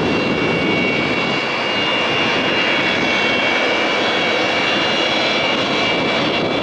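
Boeing 737-700's CFM56 turbofan jet engines, a loud steady rushing noise with several high steady whining tones over it.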